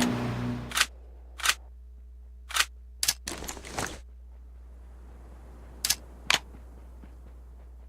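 Background music fading out, then a string of about eight short, sharp clicks at irregular intervals.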